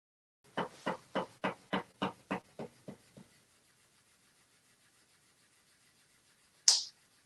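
A fish flopping against a surface: about ten quick, even slaps, roughly three a second, fading as it stops. Near the end comes one short, sharp, loud sound.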